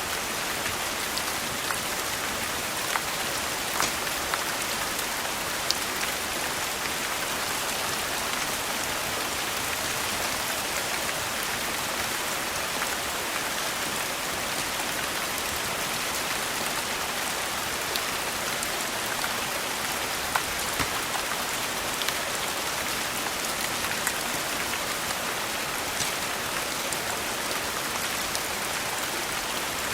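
Steady rain falling in an even hiss, with scattered sharp ticks now and then.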